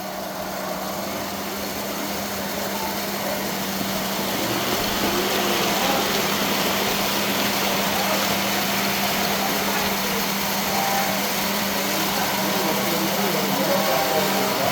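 Model train running on the layout track: a steady mechanical whir that grows louder over the first few seconds and then holds even, over a constant low electrical hum.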